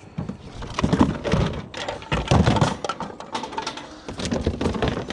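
Irregular clanks, knocks and thuds of scrap being handled and dropped into a van, with a couple of heavier thuds among the clatter.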